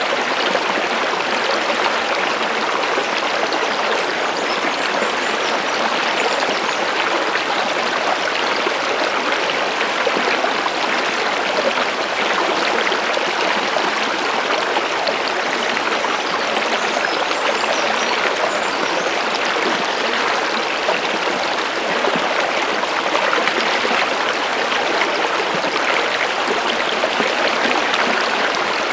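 Running stream water, a steady rushing and babbling flow with no pauses.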